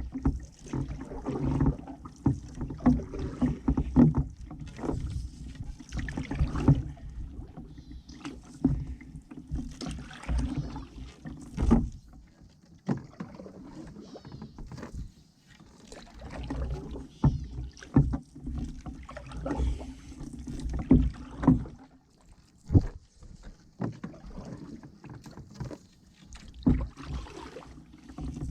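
Solo canoe being paddled with a wooden ash paddle: irregular splashing strokes and knocks against the Souris River Tranquility Solo's hull, with a few short lulls between strokes.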